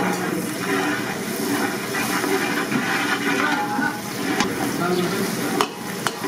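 Chicken frying in a pan with a steady sizzle, and a couple of sharp knocks of a utensil against the pan near the end. Voices talk in the background.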